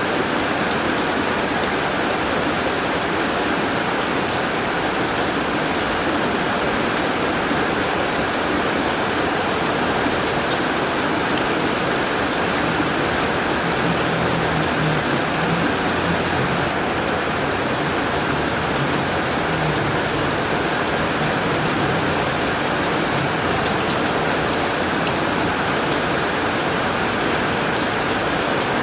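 Heavy rain drumming steadily on a tin roof, with a dense patter of individual drop ticks. A faint low rumble comes in about halfway through.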